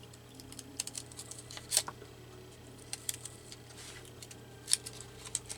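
Scissors and paper being handled at a craft table: scattered light clicks and paper rustles, with two sharper clicks about three seconds apart.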